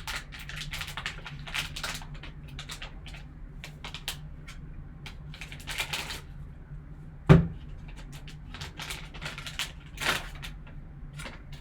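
Hands opening a sealed trading-card pack: a run of packaging rustles and clicks, with one louder knock about seven seconds in, over a steady low hum.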